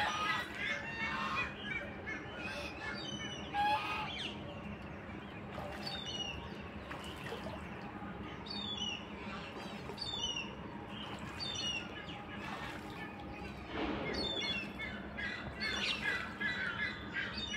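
Birds chirping in many short, high, falling calls, scattered irregularly, with a few lower squawking calls mixed in.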